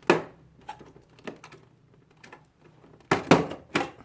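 Plastic snap-fit latches on a wall-mounted air conditioner's casing clicking and popping as a panel is pried off: a sharp snap at the start, a few light clicks, then a quick run of loud snaps near the end.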